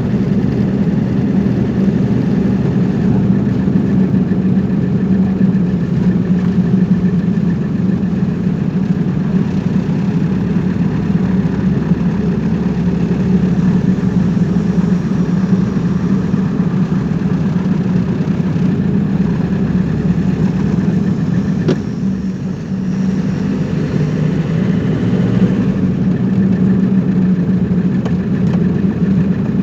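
Car engine running steadily with road noise while driving, a constant hum with a brief dip in level a little over twenty seconds in.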